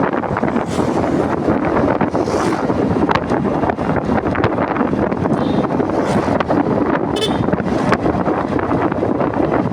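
Steady wind noise on the microphone of a moving motorcycle, with the bike's running noise underneath.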